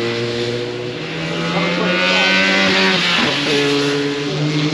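Car engines running at steady revs; about three seconds in the pitch sweeps down and drops to a new level.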